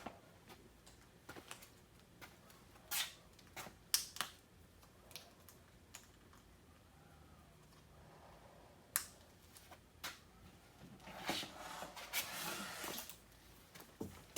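Scattered light clicks and taps of small parts and equipment being handled, with a short burst of hiss lasting about two seconds, about eleven seconds in.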